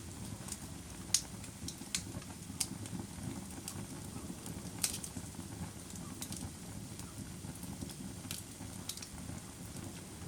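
Wood fire in a fireplace crackling: irregular sharp pops and snaps, a few louder than the rest, over a low steady rumble of burning.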